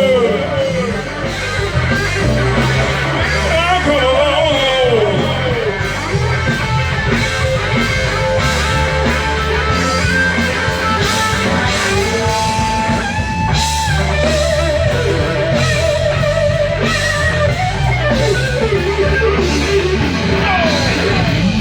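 A band playing a rock-blues number: electric guitar lines that bend in pitch over bass and drums.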